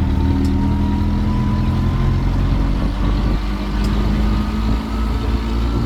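Engine of a road tour train running steadily, a low hum under a thin whine that slowly rises in pitch.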